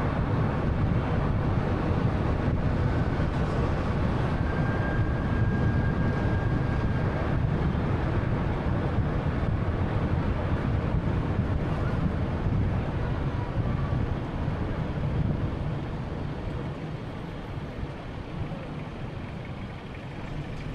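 Road noise from a 2013 Honda Fit (1.3-litre) on the move: a steady low rumble of tyres and engine that grows quieter near the end as the car eases off.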